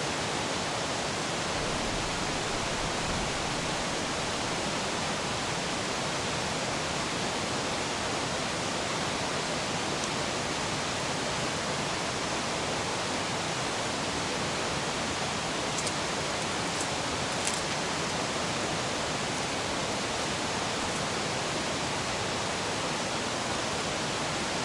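A river rushing steadily, an even hiss with no change in level. A few faint clicks come about two-thirds of the way through.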